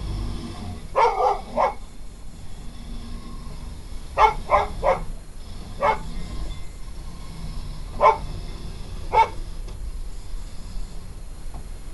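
A dog barking in short, sharp barks, about nine in all, in bunches: three quick ones about a second in, three more around four seconds, then single barks spaced out toward the end. A steady low rumble runs underneath.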